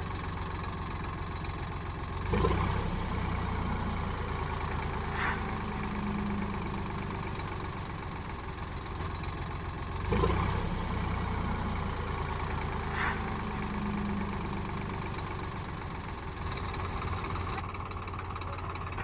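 Diesel engine of a Sonalika DI-47 RX Sikander tractor running steadily. It surges suddenly twice, about two seconds in and again about ten seconds in, and each surge is followed a few seconds later by a short sharp click.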